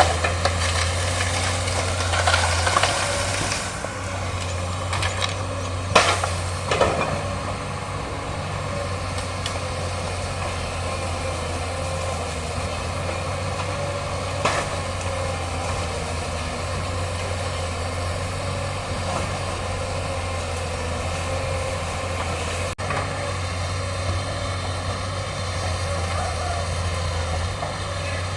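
Excavator diesel engine running steadily with a low drone, its hydraulic arm at work, with a few sharp cracks, the loudest about six seconds in and another near the middle.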